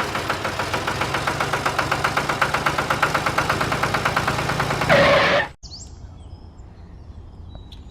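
A small motor, such as a DIY mini tractor's, running with a rapid, even chugging pulse. It swells briefly and cuts off abruptly about five and a half seconds in, leaving faint bird chirps.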